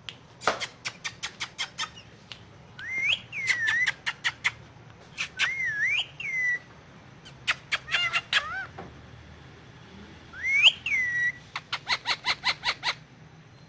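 Indian ringneck parakeet calling: runs of quick, sharp chips, about six a second, mixed with short whistled notes that swoop up and down.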